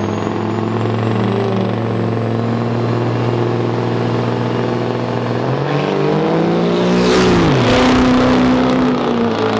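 Turbo-diesel truck engines running steadily. About five seconds in, one revs up with a high whine climbing in pitch, peaking in a loud rush around seven seconds, and then its pitch falls away.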